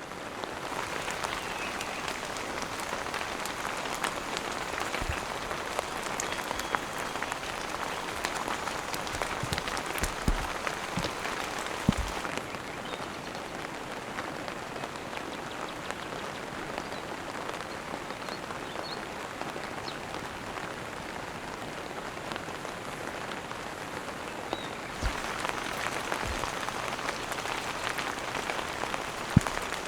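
Heavy rain falling steadily, getting a little heavier near the end. It is broken by a few short, dull low thumps.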